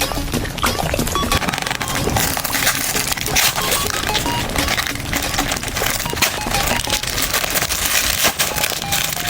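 Close-up eating sounds: dense crunching and crackling clicks of someone chewing jelly sweets, with faint background music.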